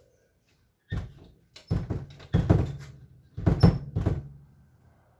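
A series of about six thumps and knocks in three quick clusters, each hit ringing briefly.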